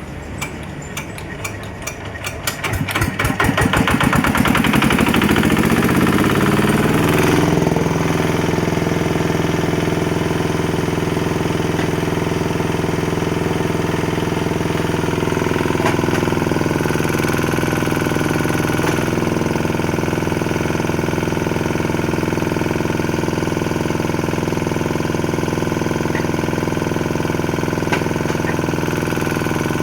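An engine starting: firing strokes come faster and faster until it catches about three seconds in. Its speed rises for a few seconds, then it settles to a steady idle.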